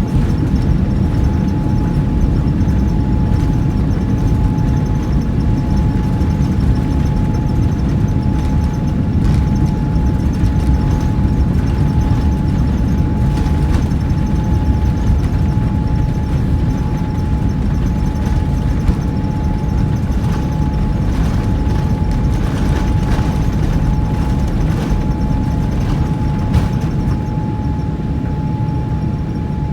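ANA Boeing 787-8's Rolls-Royce Trent 1000 engines at takeoff thrust heard from inside the cabin: a loud, steady low rumble with a steady high tone over it. Brief knocks and rattles come and go in the middle stretch.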